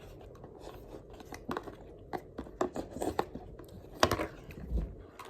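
A person chewing food close to the microphone: a run of small, scattered wet clicks and smacks from the mouth.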